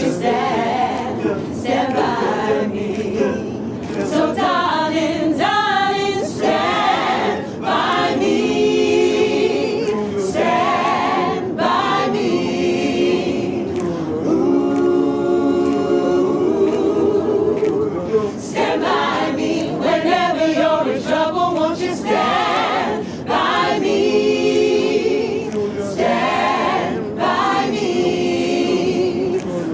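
Several voices singing together a cappella, with long held notes and no instruments.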